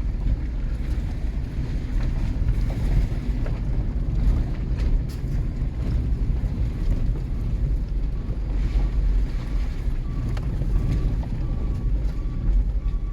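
Wind noise rumbling on the microphone over the steady low drone of a vehicle moving slowly. In the last few seconds a truck's reversing alarm starts beeping faintly, about twice a second.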